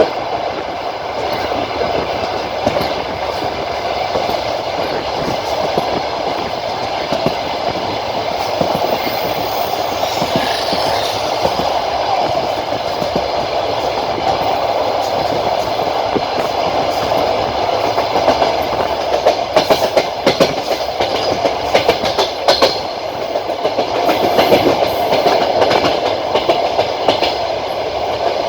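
A passenger train carriage's wheels running on the rails: a steady rumbling rush with the clickety-clack of the wheels over rail joints, the clacks coming more often in the second half.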